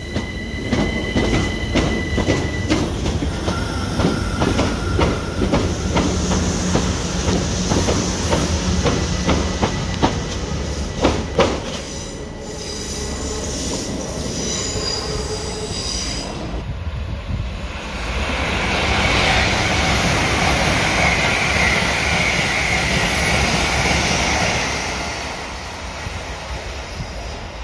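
GWR passenger trains running through a station. First an electric multiple unit rolls along the platform, its wheels clicking over rail joints, with short high squeals. After a cut, a louder steady rush of train running noise builds and then fades near the end.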